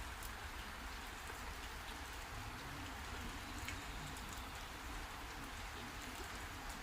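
Heavy rain falling steadily: an even hiss with scattered sharp ticks of individual drops.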